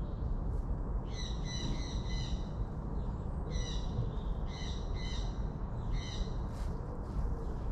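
A bird calling in four bouts of short, buzzy, repeated calls: a long run about a second in, two more in the middle and a short one near the end. A steady low rumble lies underneath.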